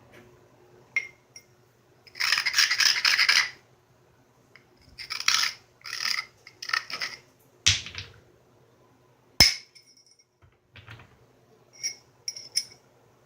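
Flintknapping: several rasping scrapes of stone on stone as a platform edge is abraded, then two sharp percussion strikes on the flint piece about two seconds apart, followed by a few light clinks of flakes or stone.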